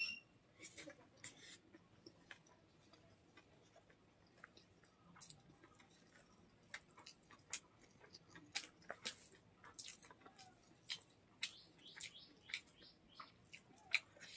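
Close-up mouth sounds of chewing chicken gizzard curry and rice: irregular wet clicks and smacks, with a quieter stretch a few seconds in.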